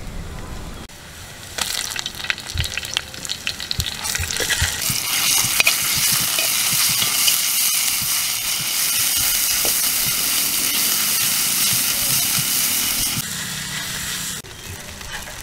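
Ground masala paste sizzling as it fries in hot oil with sautéed onion, ginger and garlic, stirred with a spoon that scrapes the pan. The sizzle builds a few seconds in, holds steady, and eases near the end.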